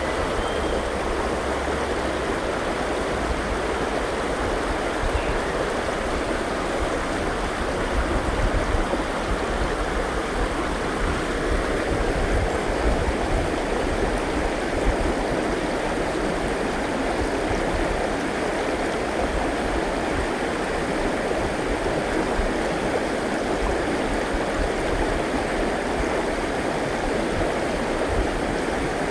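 River flowing: a steady, even rushing of water.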